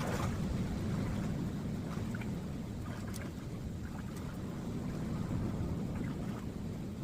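Low steady rumble of wind buffeting the phone's microphone, with rain falling and light water splashes ticking over it.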